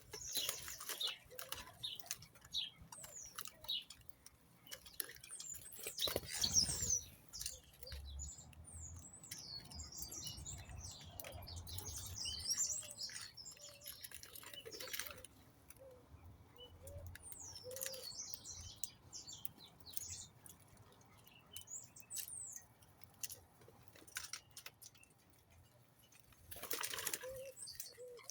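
A flock of small birds chirping and twittering, with a few short rushes of wings flapping, the loudest about six seconds in, and some scattered low calls.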